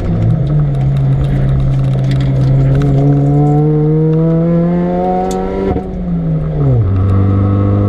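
Supercharged Mini Cooper R53's 1.6-litre four-cylinder engine pulling under load at full throttle, its pitch climbing steadily for about five seconds. The revs then drop off and it settles to a steady lower drone near the end.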